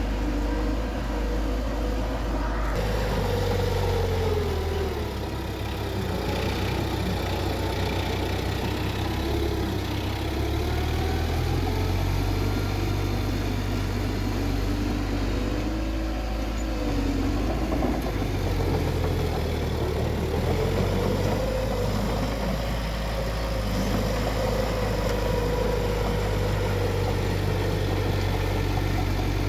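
Bulldozer's diesel engine running under load while pushing dirt, its pitch rising and falling every few seconds as the revs change.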